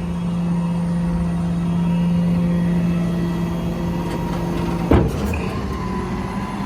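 Diesel truck engine running steadily under way, a strong even drone. About five seconds in the drone changes and a short sharp knock sounds.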